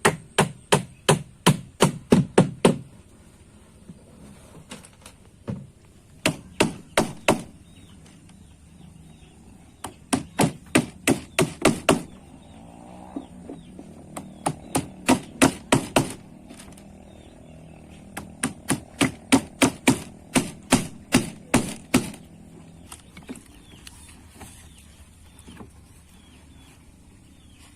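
Repeated sharp blows of a hand tool striking, in five runs of rapid, evenly spaced strikes, about four a second, with pauses of a few seconds between runs.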